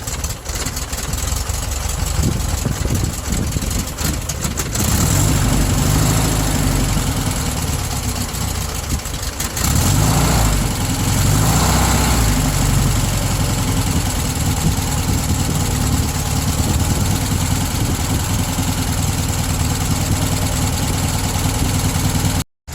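VW T2 bus's air-cooled flat-four engine running at idle with freshly adjusted valves, growing louder about five seconds in and again about ten seconds in.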